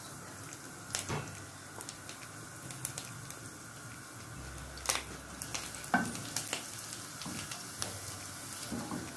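Chopped garlic sizzling in olive oil in a stainless steel frying pan, a steady hiss with scattered pops and crackles. A wooden spoon stirs it later on.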